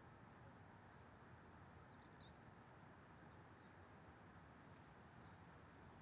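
Faint, steady wind noise with small bird chirps now and then.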